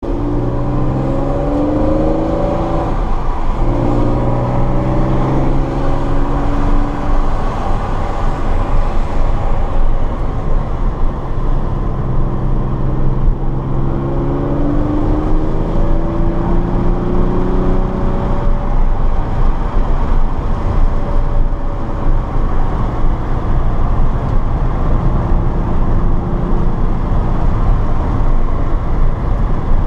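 Car engine at race-track speed, pulling hard with its pitch climbing through the revs, then dropping at each gear change, several times over. A steady rush of road and wind noise runs underneath.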